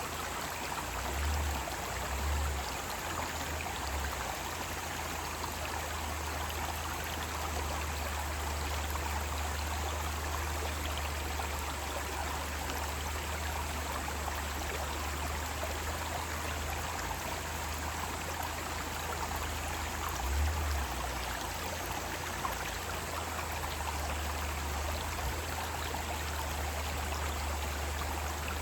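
Mountain stream rushing and splashing over rocks in a steady, even flow, with a brief low bump about twenty seconds in.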